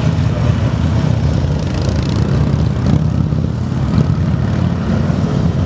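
Police motorcycle engine running steadily as an officer rides a skills course.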